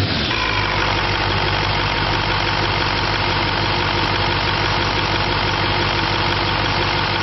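2005 Chevrolet Silverado 2500's 6.6-litre Duramax turbo-diesel V8 idling steadily, its revs falling back to idle in the first moment.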